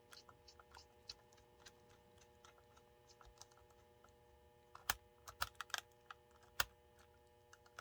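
Light clicks and taps of a small screwdriver and parts as screws are driven into the plastic of an HO model locomotive. Sharper clicks come in a cluster a little past the middle, over a faint steady hum.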